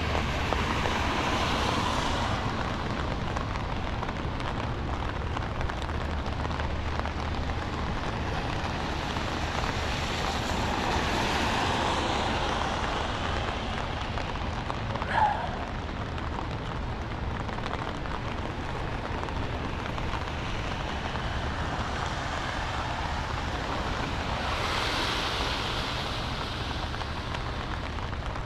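Steady rain hiss on a city street, with cars passing on the wet road three times, their tyres swishing up and fading. A brief high squeak about halfway through.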